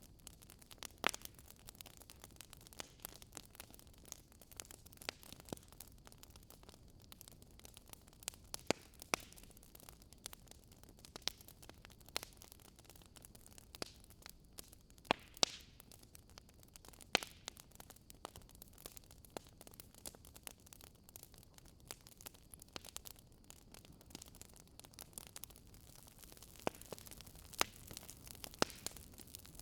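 Wood fire crackling in a fireplace: a low, steady hiss with scattered sharp pops and snaps of burning logs at irregular intervals.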